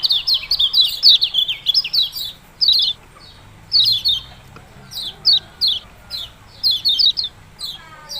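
Kecial kuning songbird chattering its sharp 'ciak-ciak' call: rapid runs of high, downward-sliding chirps, unbroken for about the first three seconds, then in quick clusters separated by short pauses.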